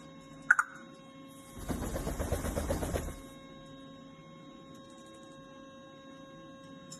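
Grey parrot giving one short sharp chirp, then about a second and a half of fast, rattling, rasping noise over a faint steady hum.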